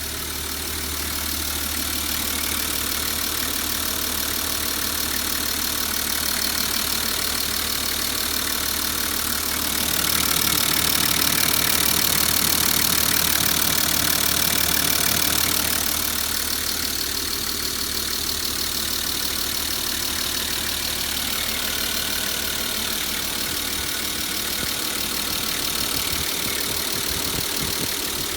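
Nissan Civilian bus's TD42 inline-six diesel engine running at idle, growing louder for about six seconds midway.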